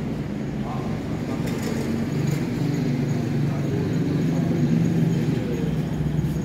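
Steady low rumble of a train at the station, growing a little louder about two seconds in, with a faint high whine above it.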